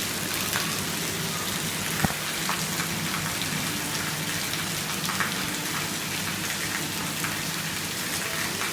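Steady rain falling, a continuous hiss sprinkled with the ticks of individual drops, with one sharp tap about two seconds in.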